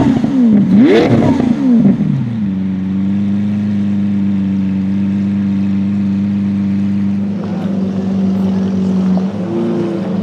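A sports car engine revved in two quick blips, the pitch rising and falling each time, then settling to a steady idle.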